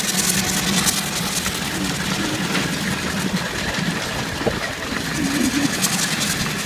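Miniature Ruston Proctor steam traction engine running steadily along the road.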